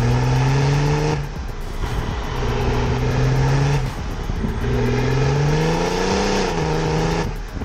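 BMW 335d estate's stage-two mapped twin-turbo straight-six diesel accelerating hard: the engine note climbs in pitch, breaks off briefly about one second and about four seconds in as it shifts up, then climbs again.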